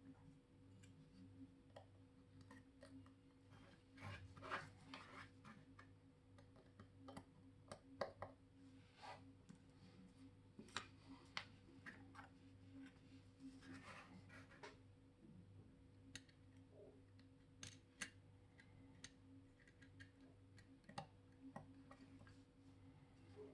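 Faint, irregular clicks and short scrapes of small metal watchmaking tools on watch parts, over a steady low hum.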